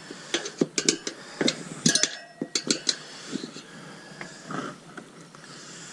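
Steel tyre levers clinking and knocking against a motorbike wheel rim as the tyre bead is levered off. There are a dozen or so sharp clinks, some briefly ringing, mostly in the first three seconds, then only a few quieter knocks.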